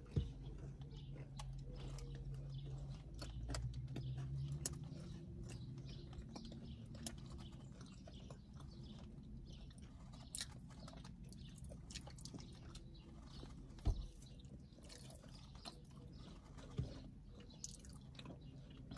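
Two people chewing soft cookies close to the microphone: faint wet mouth clicks and smacks. There is a low hum in the first few seconds.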